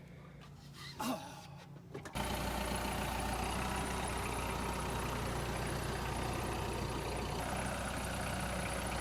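A faint low engine hum with a couple of short knocks, then about two seconds in the engine sound jumps abruptly to a loud, steady running that carries on unchanged.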